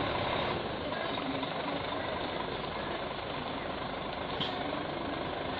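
Cargo truck engine running steadily, with a brief sharper sound about four seconds in.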